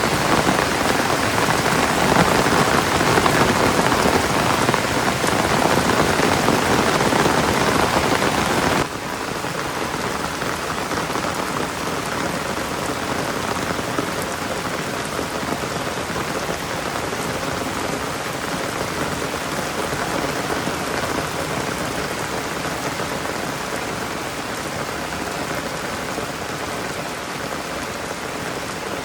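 Steady heavy rain falling, a dense even hiss of drops. About nine seconds in it abruptly becomes quieter and duller, then continues steadily.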